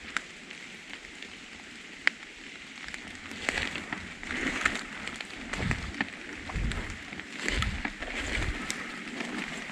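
Footsteps rustling through leaf litter on the forest floor, a few slow irregular steps, with low thumps under some of them and a couple of sharp ticks before the steps begin.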